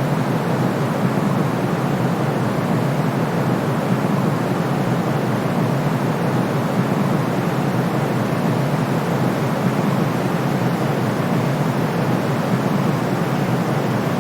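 Continuous white noise of the kind played for sleep: an even, unchanging rushing hiss weighted toward the deeper range, with no breaks, pulses or changes.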